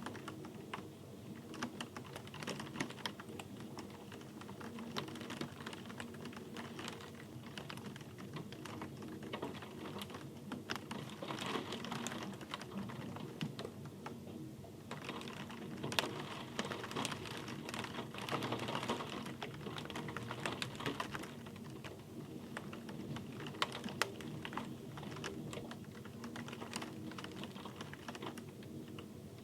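Rain falling, with many close drops landing as sharp, irregular ticks over a soft hiss, busier in the middle stretch.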